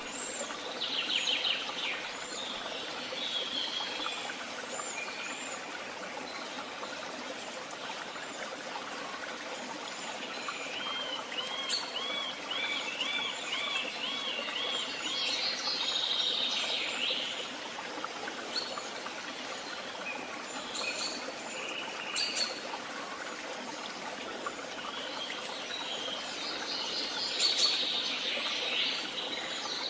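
Several wild birds singing and calling over one another in a woodland dawn-chorus style. About twelve seconds in, one bird gives a quick run of about eight similar looping notes, and other chirps and trills come and go throughout over a steady background hiss.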